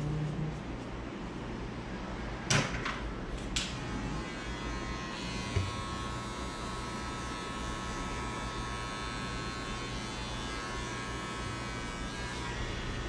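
A few sharp clicks, then a barber's small electric hair-edging tool starts up about four seconds in and runs with a steady whine while the hairline is lined up.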